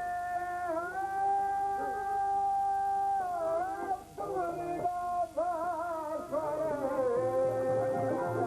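Traditional Albanian folk singing: one high voice holds long, drawn-out notes, wavering and sliding between them, with short breaks about four and five seconds in.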